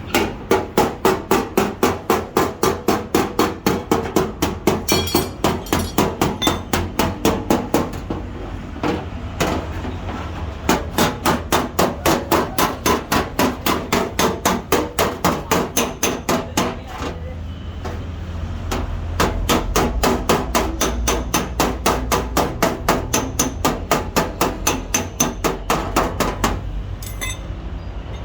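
Body hammer rapidly tapping out a dent in a car door or fender panel, about four blows a second, in three long runs with short pauses between them. A steady low hum runs underneath.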